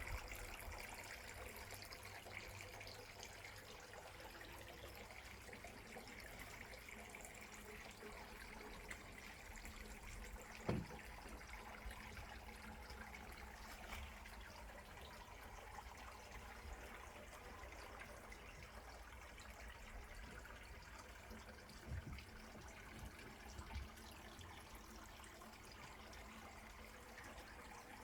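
Faint trickling water under a low rumble, with a single sharp knock about eleven seconds in and a couple of soft thumps near the end.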